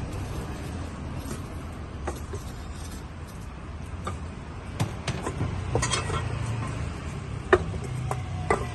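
Busy street food market ambience: a steady low rumble with scattered clinks and taps of dishes and utensils, growing busier about halfway through.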